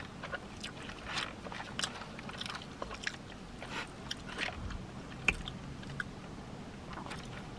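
Close-miked chewing of a mouthful of food, with small wet mouth clicks scattered throughout and a sharper click about five seconds in.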